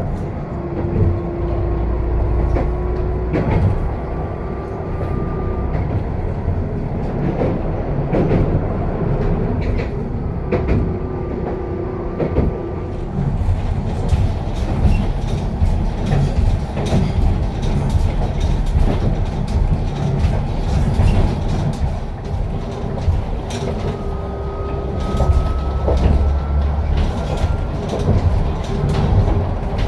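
Hankai Tramway streetcar running, heard from on board: a steady rumble with rattles and clicks over the rail joints, and a thin whine that comes and goes.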